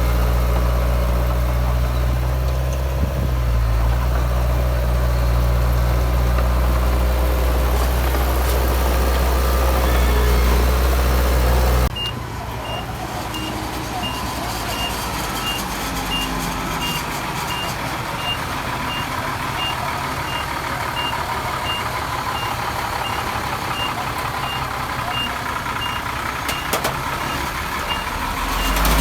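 A heavy diesel machine engine running steadily and loudly. About twelve seconds in the sound changes abruptly to a quieter engine with a reversing alarm beeping about twice a second, as a machine on the fill site backs up.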